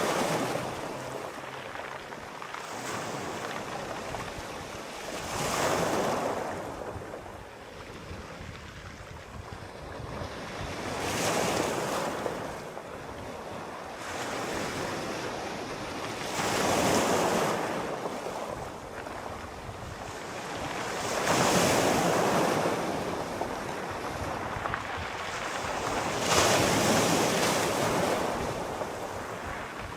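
Sea waves washing in, in slow surges about every five seconds, with a softer hiss of water between them.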